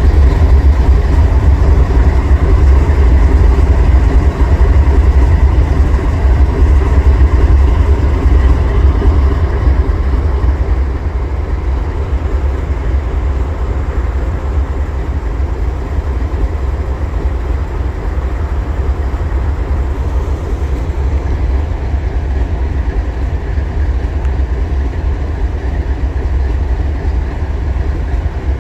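Freight train rolling past: a continuous low rumble with rail and wheel noise, easing somewhat about ten seconds in.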